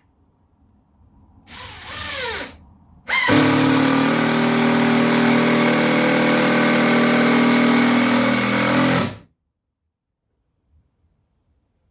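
Power tool motor: a short run of about a second, then a loud steady run of about six seconds that stops abruptly.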